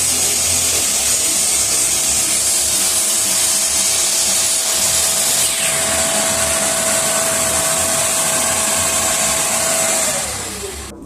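Electric power tool motor running steadily at full speed with a high hiss and a constant whine, then switched off about ten seconds in and spinning down, its pitch falling.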